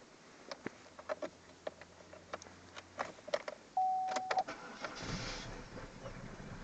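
Car keys rattle and click in the ignition, a short steady beep sounds, and the engine starts from cold about five seconds in, settling into a steady idle.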